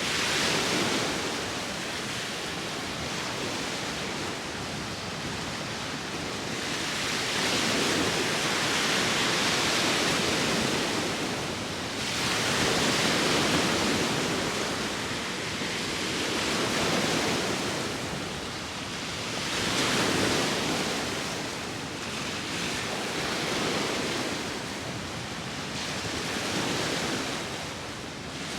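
Sea waves washing onto the shore in a continuous rush of surf that swells and fades, with a new surge every three to five seconds.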